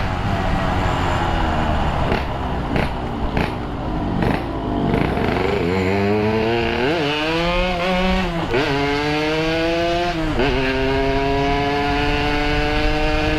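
Yamaha RX-King's two-stroke single with a Boban C33 exhaust, the revs falling as the bike slows, then accelerating through the gears: the revs climb and drop back three times as it shifts up, then climb steadily near the end.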